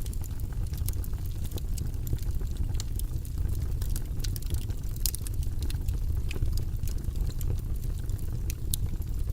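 Wood fire burning in a fireplace: a steady low rumble of flames with frequent irregular crackles and pops, a few sharper snaps among them.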